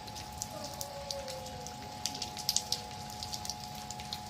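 Rain falling, with irregular sharp drop ticks striking a hard surface, busiest about two seconds in, over a steady hiss and a faint steady hum.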